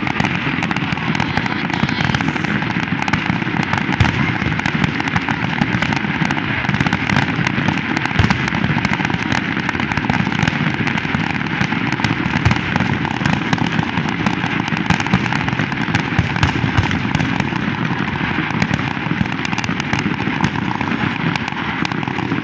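Aerial fireworks display: a dense, unbroken barrage of shell bursts and crackling, with many sharp bangs standing out all the way through.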